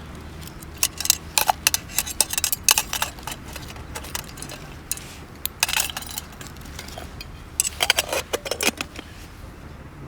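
Light clinks and rattles of camp cookware or eating utensils being handled, in three quick bunches of sharp clicks.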